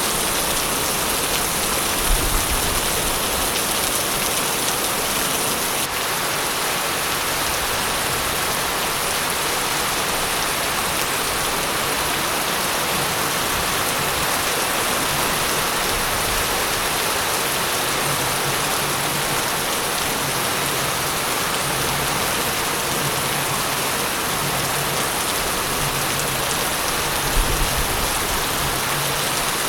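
Steady, heavy rain falling on a surface, a dense even hiss. Two brief low thumps stand out, about two seconds in and near the end.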